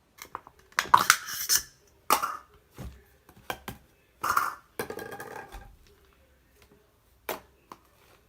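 Brown sugar bubble tea slime being squished and pressed by hand: irregular wet crackling clicks and pops, with several louder bursts in the first two thirds.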